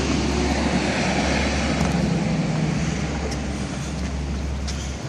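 Street traffic: a motor vehicle's engine running close by, strongest a couple of seconds in and fading a little toward the end, over a steady low rumble.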